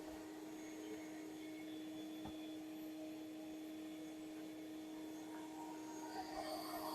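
A steady motor hum held at one pitch, with a faint hiss.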